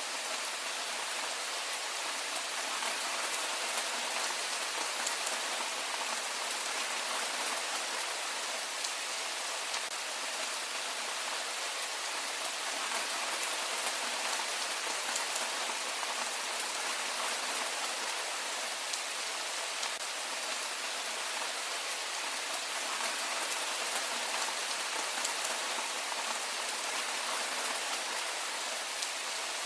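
Steady heavy rain falling, a dense hiss with scattered drop ticks.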